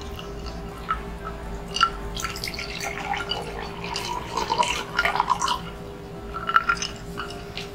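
Close-up mukbang eating sounds: wet chewing and lip smacks from people eating chicken nuggets, a string of short clicks and smacks that is busiest in the middle.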